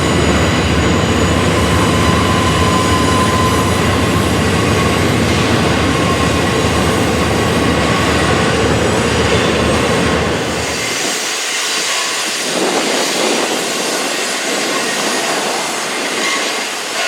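Freight train passing close by: a heavy rumble from the locomotives with thin, steady squealing tones from the wheels. About eleven seconds in, the deep rumble drops away abruptly, leaving the hissing, rattling sound of rail cars rolling past.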